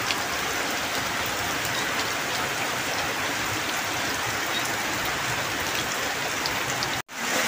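Steady rain falling on a muddy field, an even hiss. It breaks off for an instant near the end.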